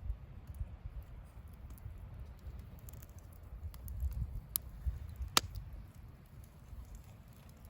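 Wood bonfire crackling: a few faint ticks and two sharp pops from the burning wood about halfway through, over a low rumble.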